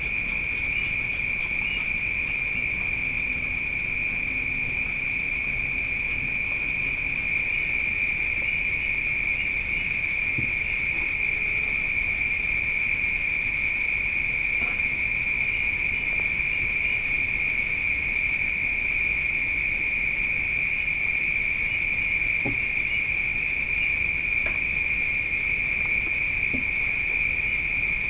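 Steady chorus of night insects: a continuous high trill with a second, higher pulsing band above it, and a few faint ticks.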